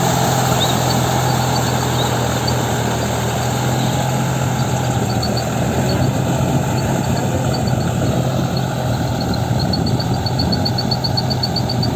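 Deutz-Fahr Agrolux 50 4WD tractor's diesel engine running at a steady speed, with a faint, rapid high-pitched ticking coming in over it near the end.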